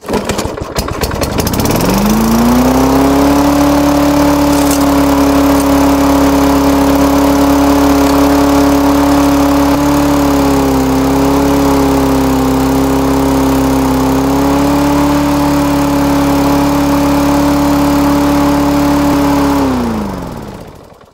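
Single-cylinder lawnmower engine catches and revs up within about two seconds to a steady, far-too-high speed with no governor response. It dips slightly once in the middle, then is shut off near the end and winds down to a stop. The owner takes the overspeed for a governor out of adjustment.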